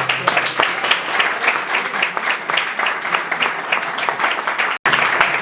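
Audience applauding, with many hands clapping densely and irregularly; the sound cuts out for an instant near the end.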